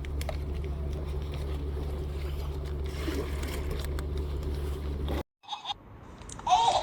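Steady low engine drone, which cuts off abruptly about five seconds in.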